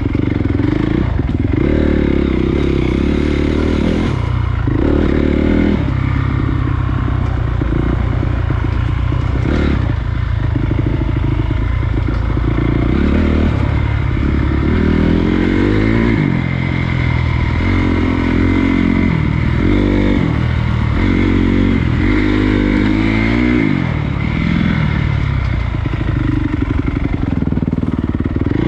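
Honda CRF250 dirt bike's single-cylinder four-stroke engine running under the rider's throttle, its pitch rising and falling again and again as it revs up and backs off.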